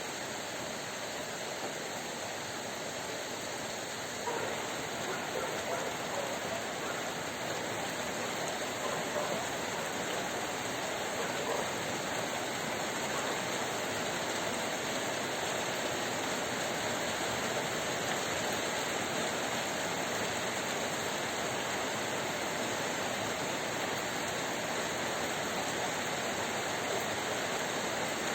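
Heavy rain pouring down steadily, an even hiss that grows a little louder about four seconds in.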